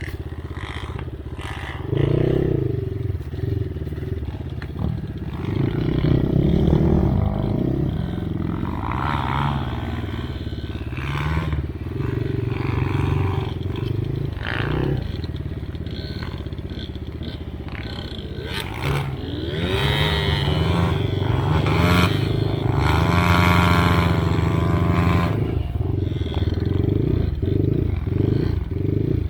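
Enduro dirt bike engine revving up and down under load as it is ridden through snow, with the pitch rising and falling repeatedly. Scattered knocks and clatter from the bike run through it.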